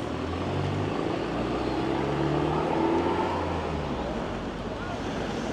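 Engine of a motor vehicle passing on the road alongside, its hum swelling to a peak about three seconds in and then fading, over a steady background of outdoor noise.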